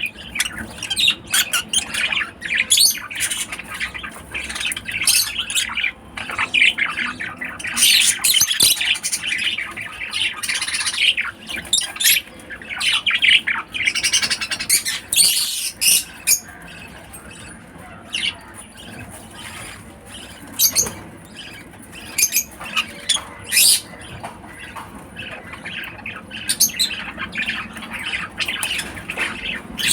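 Lovebirds calling: rapid shrill squawks and chirps, a busy chatter for the first half, then fewer, scattered calls.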